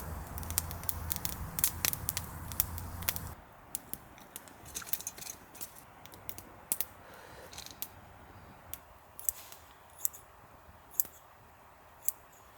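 Irregular sharp clicks and taps, with a low hum that stops about three seconds in.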